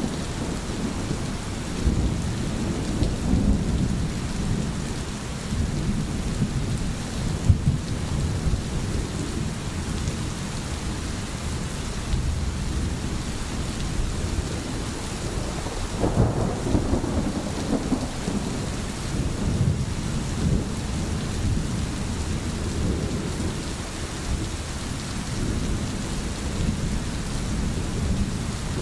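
Steady rain with a continuous low rumble of thunder, which swells about halfway through.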